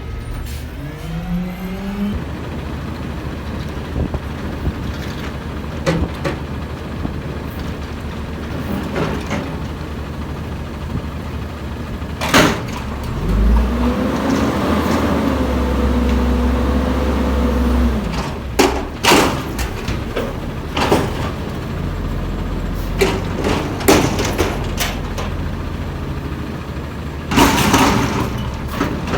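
Front-loader garbage truck at work: its engine revs up at the start, and midway it rises and holds at high revs for about four seconds. Loud metallic bangs and clanks come now and then, the loudest cluster near the end.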